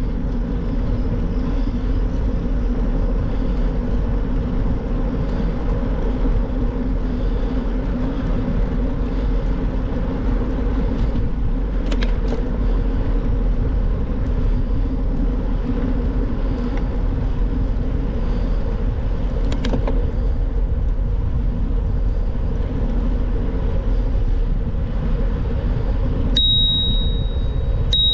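Steady rumble of a moving bicycle ride: wind on the microphone and tyres rolling on the road, with a few faint clicks. Near the end a thin, steady high squeal starts and holds.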